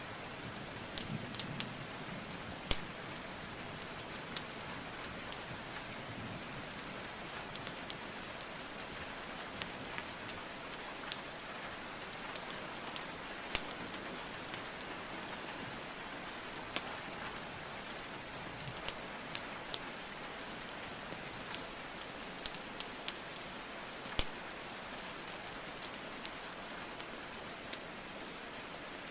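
Steady rainfall with the irregular sharp crackles and pops of a burning wood fire, a pop every second or two.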